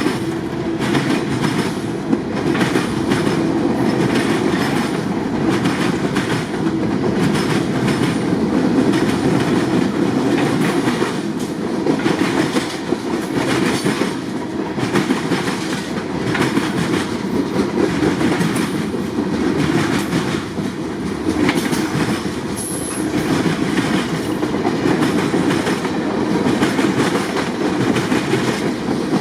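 Freight cars of a long CSX train rolling past, the wheels clacking steadily on the rails, with a brief high wheel squeal about three-quarters of the way through.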